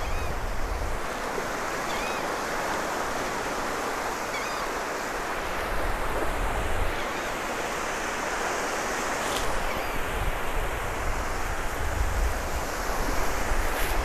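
Surf washing onto a sandy beach, a steady hiss of waves, with wind buffeting the microphone in low rumbling gusts now and then.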